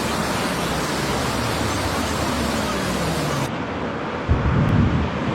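Steady, even rushing noise, which changes abruptly after about three and a half seconds to low, uneven buffeting like wind gusting on the microphone.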